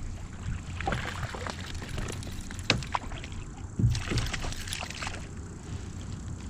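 Water sloshing and splashing beside a kayak, with scattered knocks and clicks, as a hooked chain pickerel is brought in.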